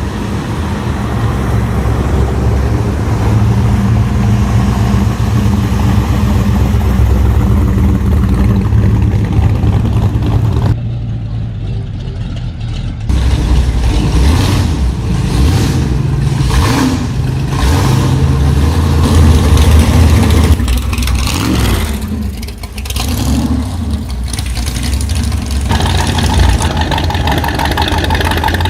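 Car engines running with a deep, steady idle and some uneven revving. The sound changes abruptly about 11 seconds in and again about 13 seconds in.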